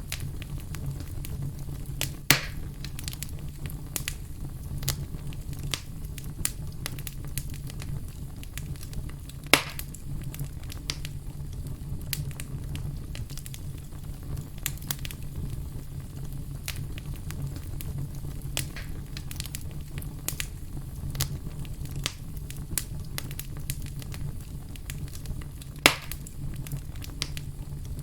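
Wood fire burning in a fireplace: frequent small crackles over a steady low rumble, with three louder pops spread through.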